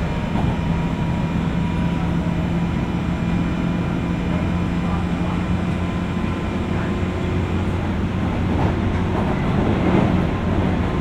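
JR West 201 series electric train running, heard inside a motor car over its armature chopper controller. The chopper and traction motors give a steady hum and whine over the rumble of the wheels on the rails.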